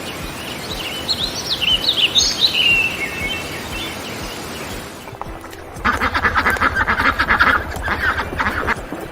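Small birds chirping in short high glides over a steady noisy background, then, about six seconds in, a duck quacking in a fast, even run of calls.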